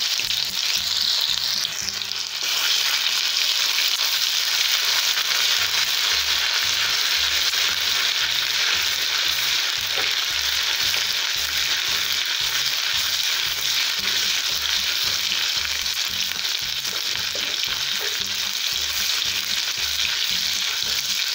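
Ginger-garlic paste frying in hot oil in a kadai with fennel, fenugreek and mustard seeds, a steady loud sizzle, while a steel spoon stirs it around the pan.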